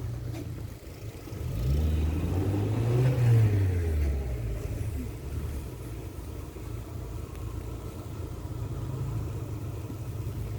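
A car engine, rising in pitch and then falling away over about three seconds, peaking about three seconds in, over a steady low rumble.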